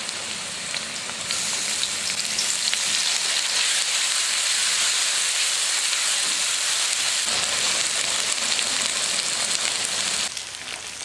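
Onion paste frying in hot oil in a pan, a steady sizzle that grows louder about a second in and drops off sharply near the end.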